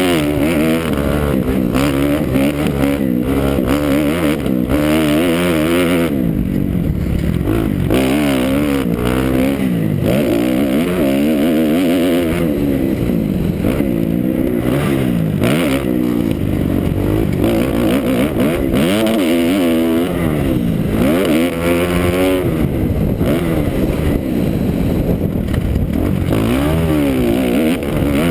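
Kawasaki KX250F's four-stroke single-cylinder engine, heard close from an onboard camera. It revs up and falls back again and again as the motocross bike accelerates, shifts and rolls off through the track.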